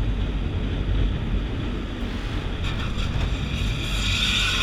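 Wind buffeting a camera microphone over a steady low rumble, with a hiss that swells near the end.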